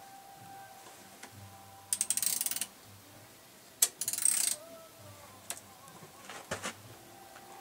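Ratchet wrench clicking as nuts are tightened: two short bursts of rapid clicks about two seconds apart, a sharp single click just before the second burst, and a fainter burst near the end.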